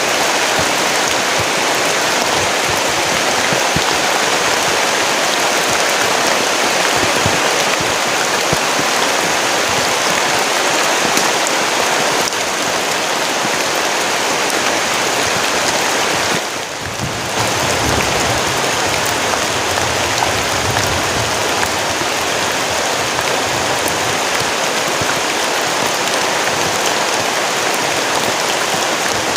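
Heavy rain pouring down steadily. About halfway through it briefly drops away, then a low rumble runs for a few seconds under the rain.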